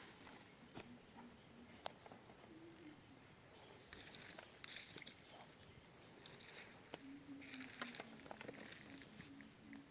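Steady high-pitched insect trill, cricket-like, with scattered faint clicks and, from about seven seconds in, faint low pulsing notes.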